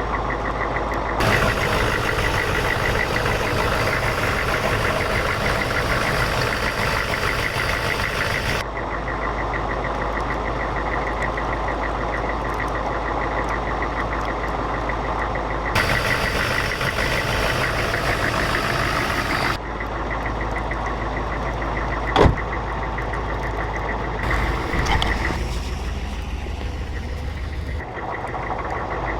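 1982 Oldsmobile 350 (5.7 L) diesel V8 idling steadily while still warming up after a cold start at about −5 °C, with one sharp click about 22 seconds in.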